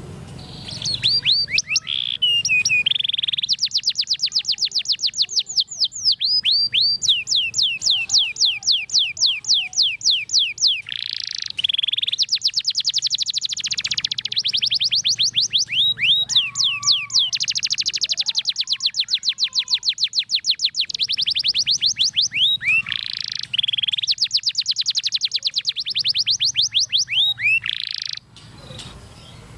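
Domestic canary singing a long, unbroken song of rolling trills, each a rapid run of repeated downward-sweeping notes. It starts about a second in and stops shortly before the end.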